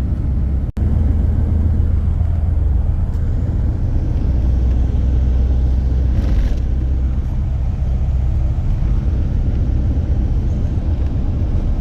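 Road vehicle on the move, heard as a steady low rumble, with a short hiss about six seconds in.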